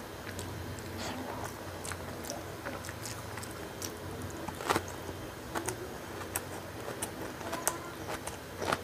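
Close-up mouth sounds of a person eating rice and fish curry by hand: wet chewing and lip smacks, with scattered sharp clicks, the loudest about halfway through and near the end.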